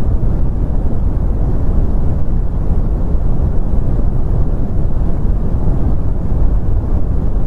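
Continuous brown noise: a steady, deep rumbling hiss with most of its weight in the low end, fading off toward the highs, unchanging throughout.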